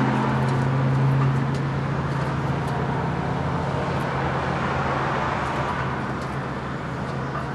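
A steady low machine hum under a broad, even hiss, dropping a little in level near the end.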